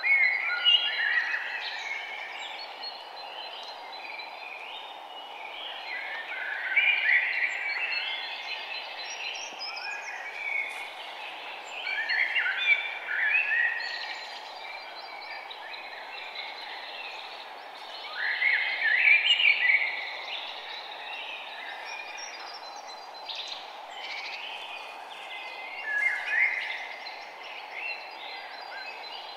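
Birds chirping in bursts of quick, rising and falling phrases about every six or seven seconds, over a steady hiss of outdoor ambience.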